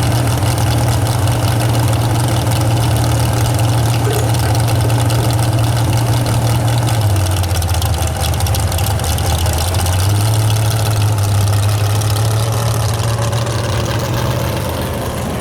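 Modified 4x4 pickup truck engine running loud and steady. Its pitch drops for a few seconds about halfway through, then comes back up.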